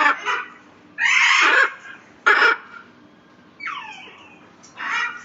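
Parrots squawking: a string of harsh, screeching calls, some sweeping up and down in pitch, the longest lasting about a second, with short loud shrieks between.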